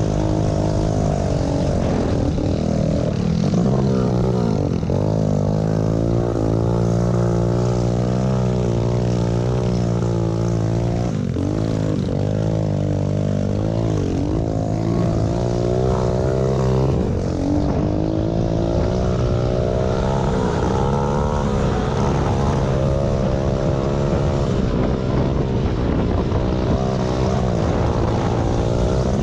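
Several small pit bike engines running at once, their pitches rising and falling as the throttles are worked.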